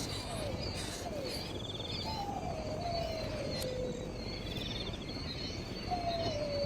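Outdoor ambience of insects chirring in short rasping trills, with a few short falling chirps early on. Over it come two long, slowly falling whistles, one about two seconds in and another near the end.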